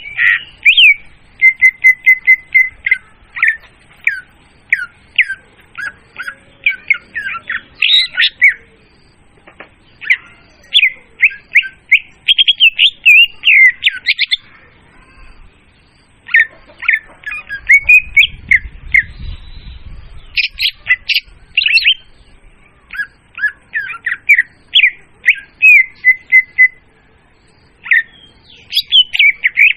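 Leafbird (murai daun) song played as a bird-hunting lure call: loud, fast phrases of sharp chirps and quick whistled notes, broken by pauses of a second or two.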